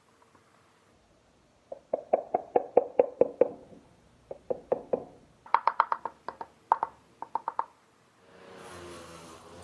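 A rapid series of sharp knocks, each with a short ringing tone, at about four to five a second, in three bursts; the ring is higher in the last burst. A steady hum begins near the end.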